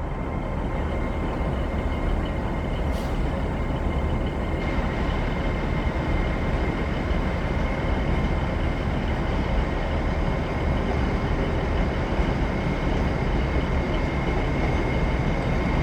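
Passenger train standing at a station platform: a steady low rumble with a constant high whine over it.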